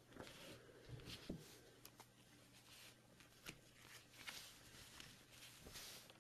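Faint rustling and light clicks of trading cards being gathered and handled, over a low steady hum.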